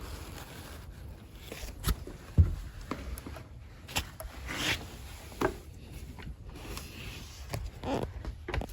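A person crawling through a crawl space: scraping and rubbing of clothing and body against the ground, with scattered knocks, the loudest about two and a half seconds in.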